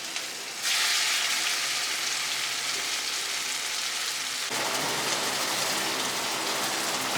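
Pakora batter frying in hot oil: a steady, loud sizzle that starts suddenly about a second in.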